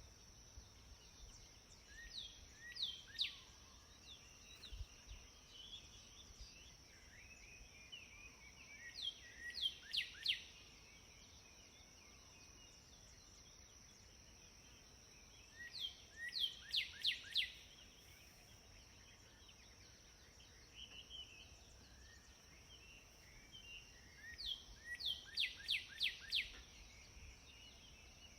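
A songbird repeating a short song of three to five quick notes, each sweeping down in pitch, four times, about every seven seconds, with softer chirps between. A steady high-pitched tone runs underneath.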